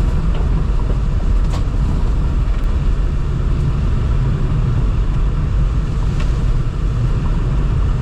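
Steady low rumble of tyres and engine heard from inside a moving car on an unpaved road, with a couple of sharp clicks about a second and a half in and again near six seconds.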